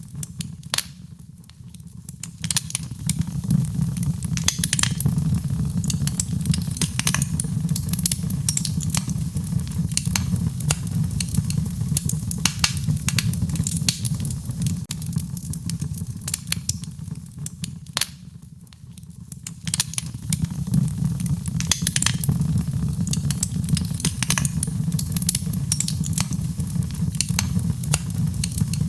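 Fire burning in a fireplace, crackling and popping with many sharp snaps over a low, steady rumble of flames. It briefly quietens twice, near the start and about two-thirds of the way in.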